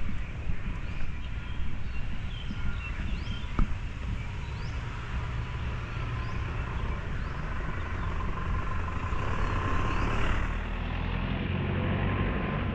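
Steady low rumble of city traffic, swelling near the end, with a bird repeating a short rising chirp about once a second.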